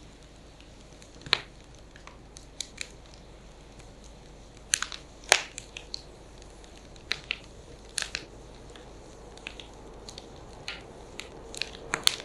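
Firewood burning, crackling with irregular sharp pops and snaps, a few of them much louder, over a low steady hiss.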